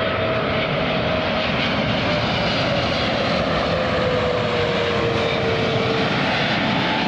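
Jet airliner arriving to land, its engines giving a loud, steady roar with a whine that slowly falls in pitch.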